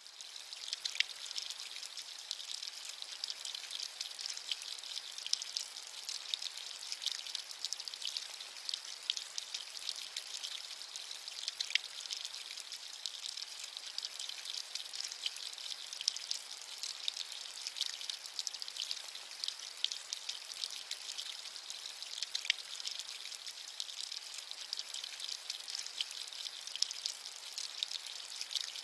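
Steady rain, an even bright hiss with many small drops ticking through it and little low rumble.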